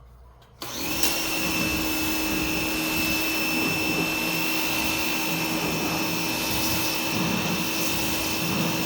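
Dextra 2,000 psi electric pressure washer kicking on abruptly as the trigger is pulled, then running steadily with its motor whine and the hiss of the water jet.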